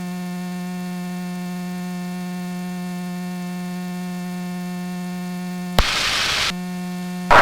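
Steady electrical hum in the light aircraft's intercom audio, one unwavering buzzy tone with no speech. About six seconds in and again near the end it is briefly broken by short bursts of hiss.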